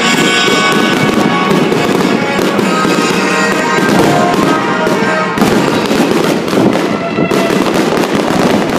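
Aerial fireworks display: a dense, continuous crackling and popping of shell bursts, with music playing over it.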